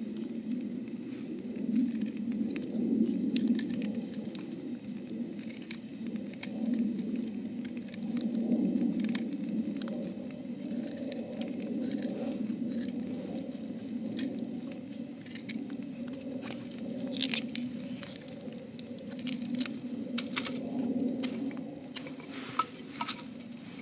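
Campfire burning: irregular crackles and sharp snaps over a steady low rush of flame.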